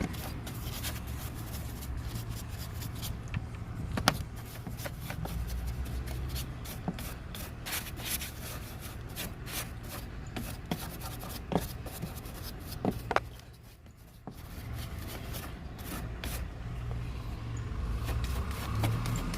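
Hand scrubbing and rubbing in many short, irregular strokes, with a low steady hum underneath. The strokes pause briefly a little past halfway.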